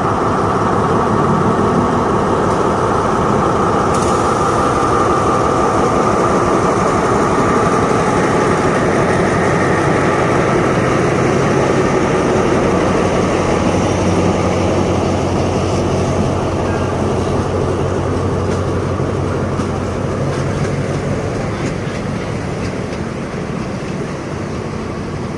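A diesel locomotive hauls a passenger train out of the station. At first the engine runs loudly with a steady whine as the locomotive passes, then the coaches roll by with continuous wheel-on-rail noise that slowly eases.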